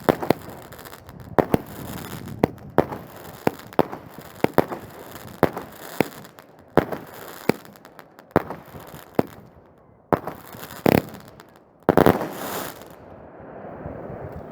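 Fireworks going off: a string of sharp bangs at irregular intervals, roughly one or two a second, with a denser crackling burst near the end.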